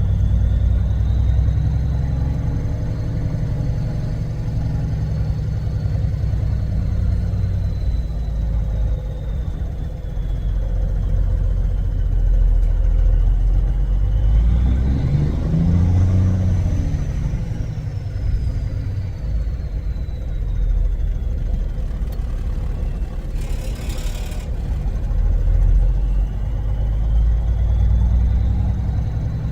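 Semi-truck diesel engine running, heard from the cab, its revs rising and falling about halfway through. A brief hiss comes about two-thirds of the way in.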